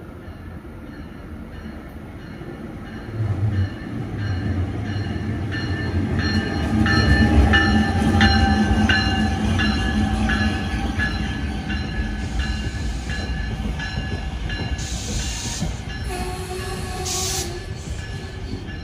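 NJ Transit ALP-46A electric locomotive and Comet coaches passing close by, the rumble of the wheels building to its loudest about seven seconds in as the locomotive goes by. Steady high whining tones ride over the rumble.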